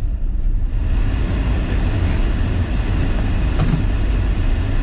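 Inside a moving car in deep snow: steady low rumble of the road and engine. A few faint clicks are followed, about a second in, by a rushing hiss from the heater blower fan getting louder as it is turned up.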